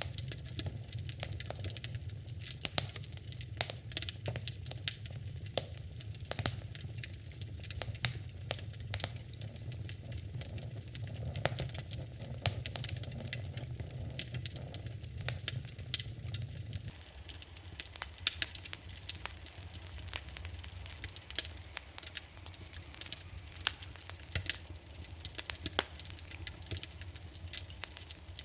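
Wood fire in a fireplace crackling, with dense irregular pops and snaps over a low steady rumble of the flames. The rumble drops away about two-thirds of the way through while the crackling carries on.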